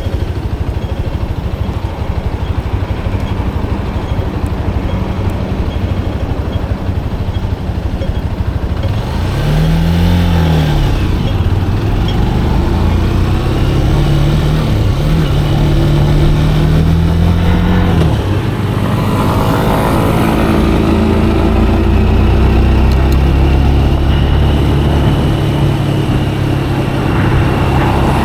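Motorcycle engine riding along: it revs up and falls back about ten seconds in, climbs steadily in pitch, drops sharply at a gear change about eighteen seconds in, then pulls on steadily and louder.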